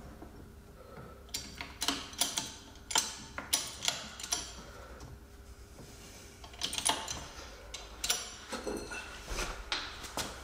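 Metal press cups and hand tools clinking and knocking as they are handled, an irregular run of sharp clicks with a few louder knocks.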